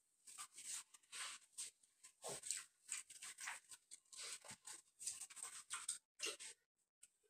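Chewing crispy breaded fried chicken: irregular, faint crunching mouth sounds, several short ones each second.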